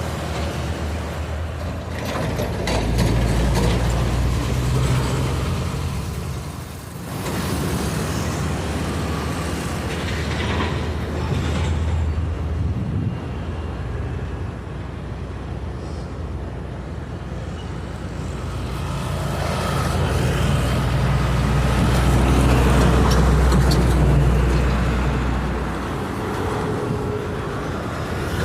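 Long Babaranjang coal train rolling past, a steady rumble of wagons and wheels. A deeper hum swells twice, once in the first third and again in the last third.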